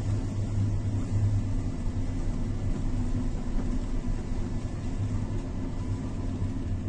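Steady low rumble with a constant deep hum underneath, unchanging throughout.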